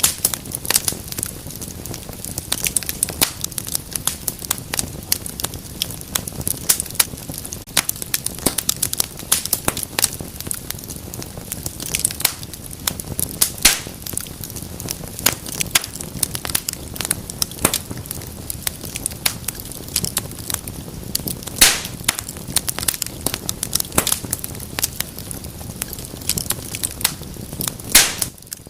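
Wood fire burning in a fireplace, crackling with many irregular small snaps over a steady low hiss, and a few louder pops.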